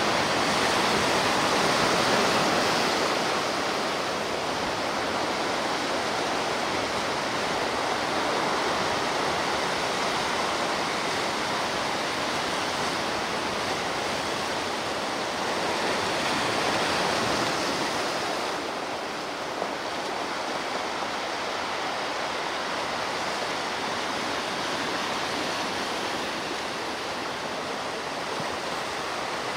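Ocean surf: a continuous wash of waves breaking and running up a shore, swelling a little near the start and again about sixteen seconds in, then easing.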